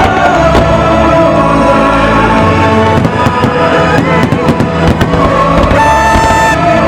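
Fireworks going off in a run of sharp bangs and crackles over loud show music, the bangs thickest in the middle.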